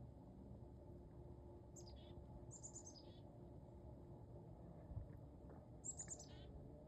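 A songbird singing faintly: two short, high-pitched phrases a few seconds apart, each a quick run of notes stepping down in pitch, over a steady low background hum. There is a brief soft low thump between the two phrases.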